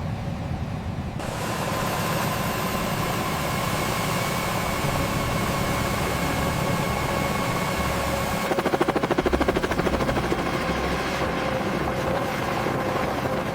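Mi-24 Hind helicopter's twin turboshaft engines starting up: a steady running sound with a high whine comes in sharply about a second in, and for about two seconds past the middle a fast pulsing beat of the rotor blades runs through it.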